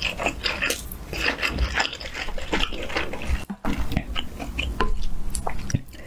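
A person chewing a mouthful of food close to the microphone, with irregular wet smacking and clicking mouth sounds. There is a brief pause about halfway through.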